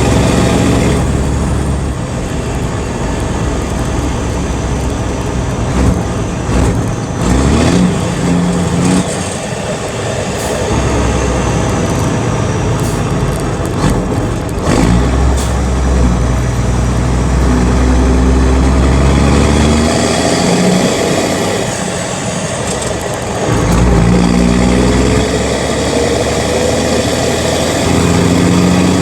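Diesel engine of a 1983 Mack R model truck through a 5-inch straight stack, pulling up through the gears: the engine note rises in pitch several times and drops back at each shift.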